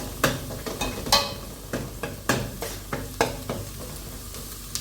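A spoon stirring food frying in a pan: irregular scrapes and knocks against the pan, roughly one every half second, over a steady sizzle.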